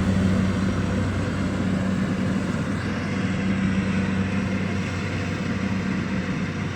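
An engine running steadily, a constant low hum over a dense mechanical noise.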